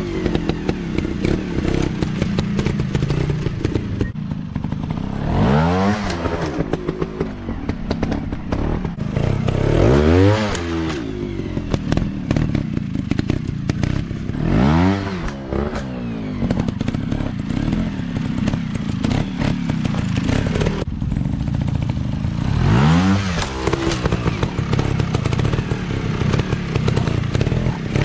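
Dirt bike engine running, revved up and let fall back four times, with clatter between the revs.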